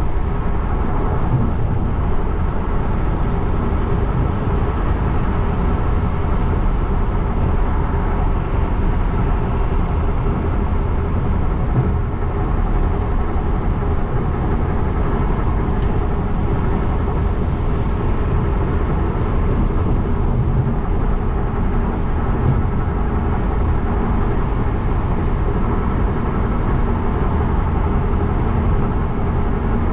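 Steady road noise of a car driving: tyre and engine sound, even and unchanging throughout.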